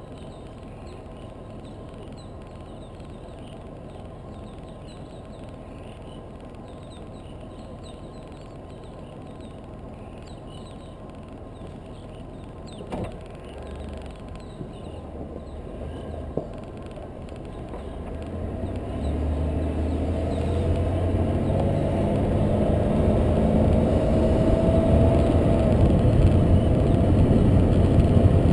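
A car's engine running at idle while the car sits still, with two sharp clicks about halfway through; then the engine grows steadily louder and rises in pitch as the car pulls away and accelerates.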